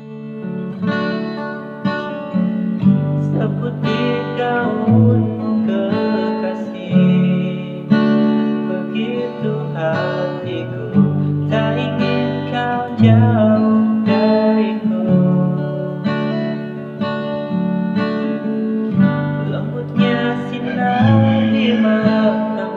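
Acoustic guitar strumming a steady chord progression, a song's instrumental opening.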